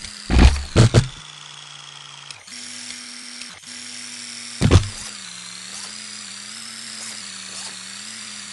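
Electric RC monster truck's motor whining steadily, its pitch wavering a little. Three short, loud bursts break in, two close together near the start and one about five seconds in.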